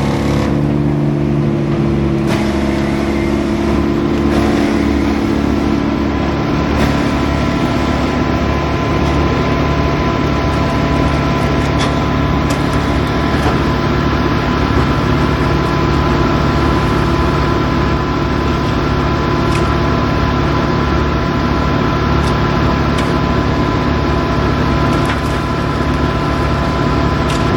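Heavy machinery engine running steadily, with a steady whine that sets in about six seconds in and a few short knocks.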